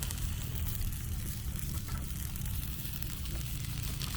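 Food sizzling and crackling faintly on a hot cooking surface, over a steady low rumble.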